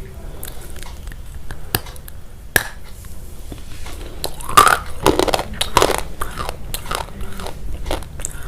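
Close-miked crunchy biting and chewing: irregular crisp crunches, loudest a little past the middle.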